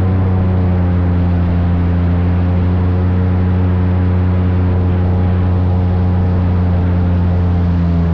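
Airboat engine and propeller running at a steady speed, a loud, unchanging low drone with a deep hum.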